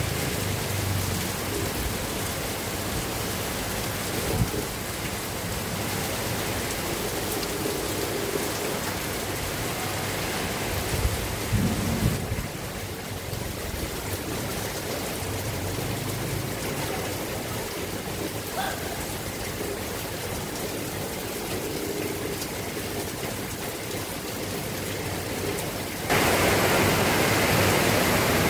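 Steady heavy rain falling, with a few brief louder moments; the rain gets suddenly louder and fuller near the end.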